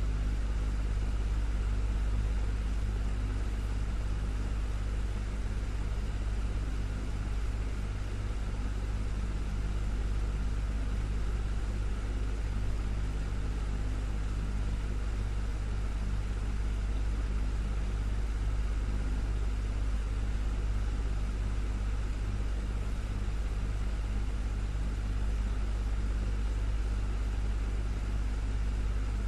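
Desktop fan running steadily: a constant low whir and rumble of air with a faint steady motor hum, unchanging throughout.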